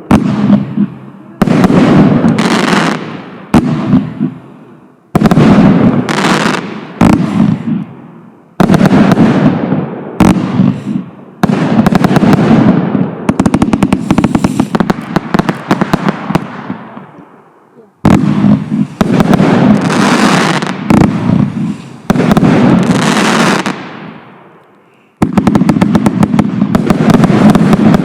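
Hurricane (8013) consumer firework going off: a string of loud, sudden bangs every one to four seconds, each followed by a crackling tail that fades away.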